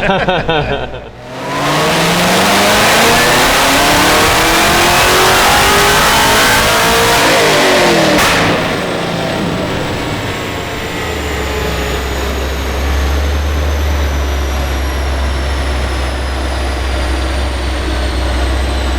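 A vehicle engine accelerating hard, its pitch rising steadily for about six seconds. Then the throttle comes off about eight seconds in, the pitch drops, and the engine settles into a quieter, steady low drone.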